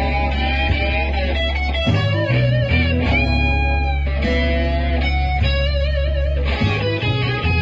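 Electric guitar solo improvising over a slow minor blues backing with bass: long sustained notes, some bent and held with wide vibrato.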